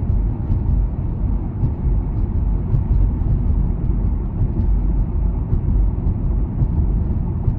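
Ride in a moving car: loud, steady low rumble of road and wind noise buffeting the microphone.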